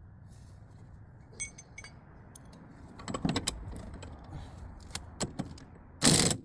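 Metal tools and parts clinking and knocking, then a short, loud burst from an impact wrench near the end.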